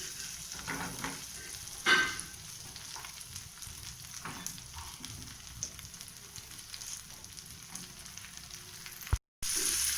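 Onions frying in melted butter in a pan, a steady sizzle with a short knock about two seconds in. The sound cuts out briefly near the end.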